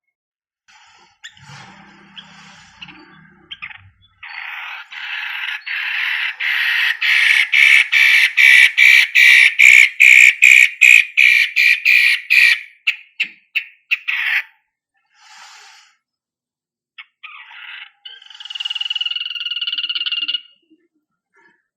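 Cendet (long-tailed shrike) singing: a long string of harsh, rapid notes, about two or three a second, swelling louder and quickening before breaking up into scattered short notes. A brief whistled phrase follows near the end.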